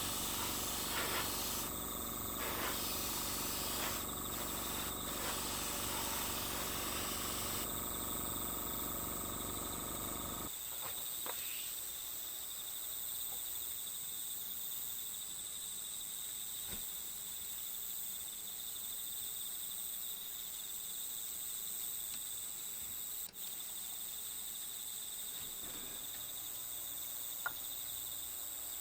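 A steady, high-pitched insect chorus throughout. For the first ten seconds or so a mechanical hum with hiss sounds over it, then stops suddenly, and a couple of sharp clicks follow later.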